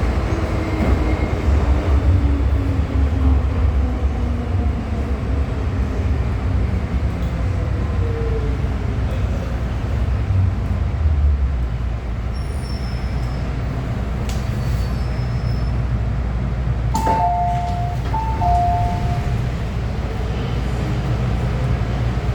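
MTR M-Train electric multiple unit running on the Tsuen Wan line, with a steady low rumble and a motor whine that falls in pitch as the train slows. About 17 seconds in there is a click, then a two-tone electronic chime sounds twice.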